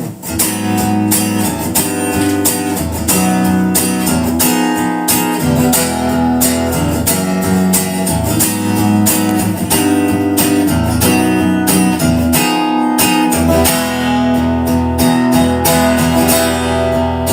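Acoustic guitar playing the song's intro, strummed chords in a steady rhythm.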